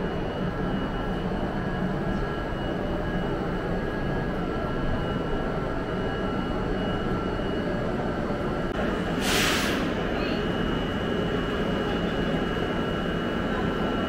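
Steady hum and whine of a stationary Trenitalia Vivalto double-decker train standing at a platform, with a brief hiss about nine seconds in.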